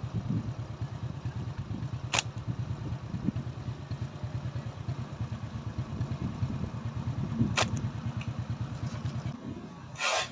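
Small engine running steadily with a fast, even pulsing beat. Two sharp clicks sound about 2 and 7.5 seconds in, and a short, louder noisy burst comes just before the end.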